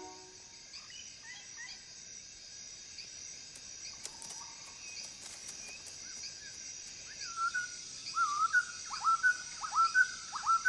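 Forest ambience: a steady high hiss with faint bird chirps, then, about three quarters in, a bird calling over and over, louder, in short notes that rise and then drop sharply, about two a second.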